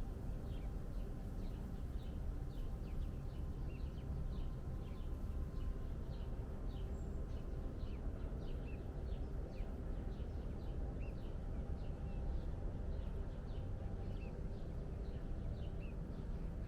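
Small birds chirping, many short downward-sliding chirps in quick succession, over a steady low background rumble.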